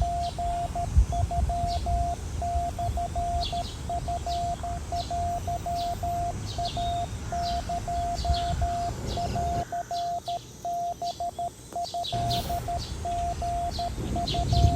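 Morse code beeping: one steady tone keyed on and off in irregular short and long pulses. Birds chirp over it, with a low outdoor rumble beneath that cuts out for a couple of seconds midway.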